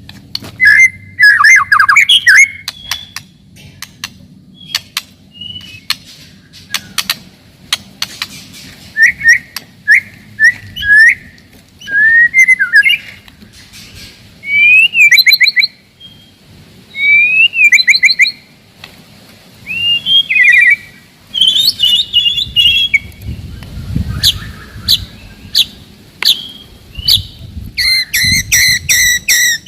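White-rumped shama (murai batu) singing loudly in short whistled phrases that slide up and down, broken by sharp clicking notes. Near the end comes a fast, tightly packed run of repeated notes, the rapid-fire 'tembakan' style of song.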